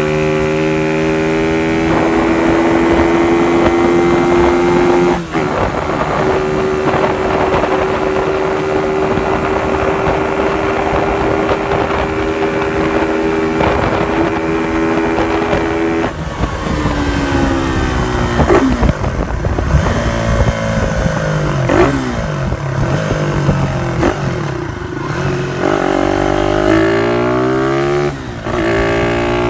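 Honda CY moped's small single-cylinder four-stroke engine running through an aftermarket exhaust. It holds steady revs for a long stretch, then is revved up and down repeatedly.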